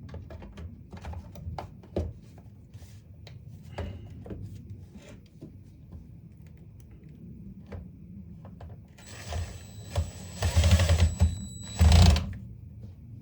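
Light clicks and knocks of parts being handled, then a power drill runs in three short bursts with a high whine near the end, driving screws into the saw's housing.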